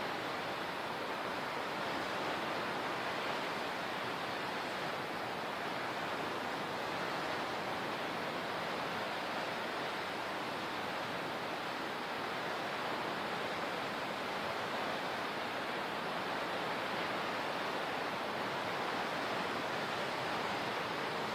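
Steady rushing of water, an even, unbroken hiss with no distinct swells or breaks.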